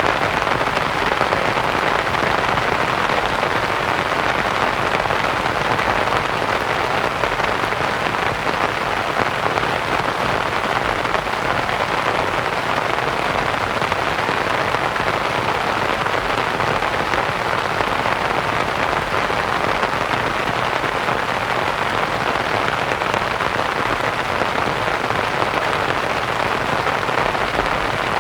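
Steady rain pattering on a canvas tent, blended with a soft white-noise hiss, at an even level throughout.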